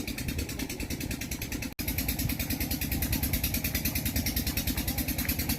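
Tractor engine running with an even, rapid chugging pulse. It cuts out for an instant about two seconds in, then runs on a little louder.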